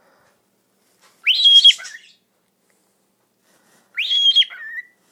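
Pet bird twice whistling its imitation of "pretty bird". Each call is a high whistle that rises sharply, holds, then drops to a short lower tail.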